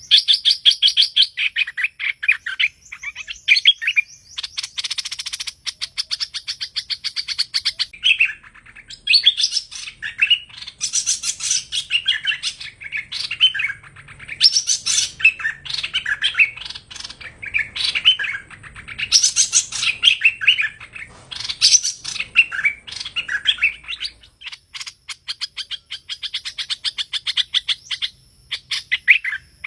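Hoành hoạch bird singing: long runs of quick, high chirping notes with a rapid buzzy trill about five seconds in, and short pauses between phrases.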